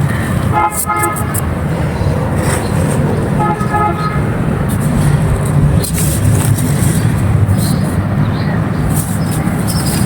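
Steady road traffic rumble, with a vehicle horn tooting several times in the first four seconds.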